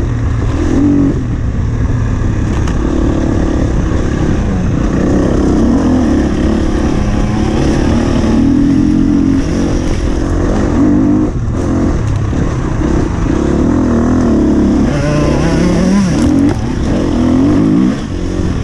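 Husqvarna FE 250 enduro motorcycle's single-cylinder four-stroke engine running hard off-road, its pitch rising and falling with the throttle. It eases off briefly near the end.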